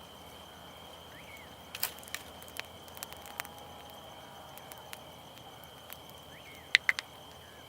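Campfire crackling with scattered sharp pops, the loudest two close together near the end, over a steady high-pitched drone of crickets or other night insects.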